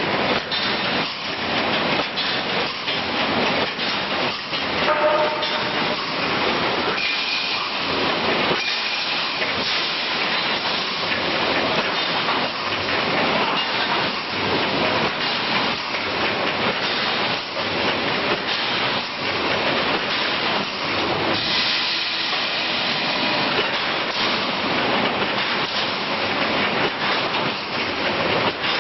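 High-speed automatic reinforcing mesh welding machine running, its welding strokes repeating rapidly as a continuous loud mechanical clatter with frequent sharp knocks.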